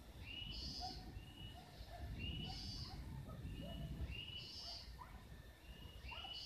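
A forest bird repeating a two-part call four times, about every two seconds: a short high note, then a higher, buzzier one. Fainter notes from other birds and a low rumble run underneath.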